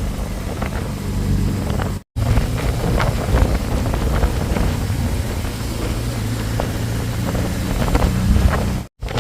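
Motorcycle engine running at road speed, with wind buffeting the microphone. The sound drops out abruptly for a moment twice.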